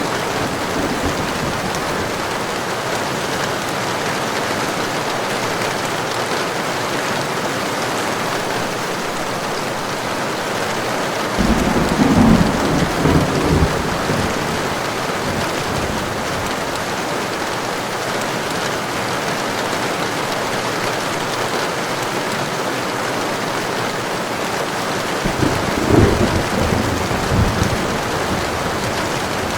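Heavy rain falling steadily, with two low rolls of thunder: one about twelve seconds in lasting a couple of seconds, and another near the end.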